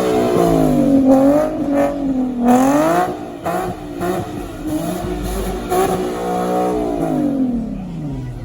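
A car engine revved hard, its pitch swinging up and down several times, then falling away near the end. This is the sound of a clutch being abused: the driver burns out his clutch, which is left smoking and smelling of clutch.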